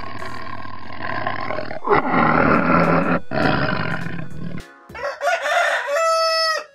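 A tiger roaring, three long roars one after another, then a rooster crowing once near the end, its call ending in a held note.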